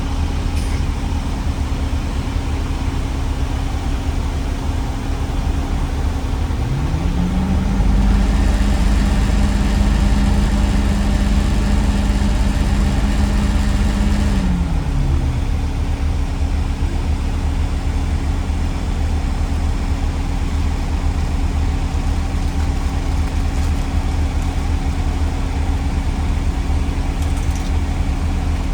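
A vehicle engine running steadily with a low rumble; about seven seconds in it revs up, holds for several seconds, then drops back about fifteen seconds in.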